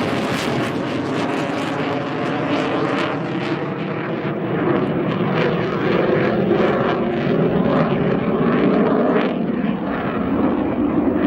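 Jet noise from an EA-18G Growler display: a loud, steady rushing sound from the jet's twin turbofans. Its hiss thins out after about two seconds as the jet draws away.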